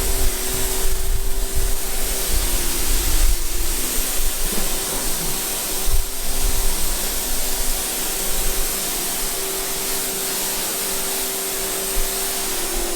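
Motorised cleaning machine running steadily: a constant loud hiss over an even motor hum, with a brief knock about six seconds in.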